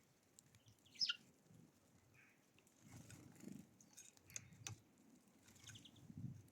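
Wild songbirds at a feeder. About a second in, one sharp call sweeps down in pitch. Later come a few faint chirps and sharp clicks over soft low knocking.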